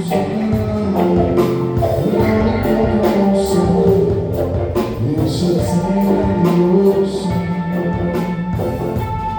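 Live band music with singing and drums, played loud and steady, with drum hits at a regular beat.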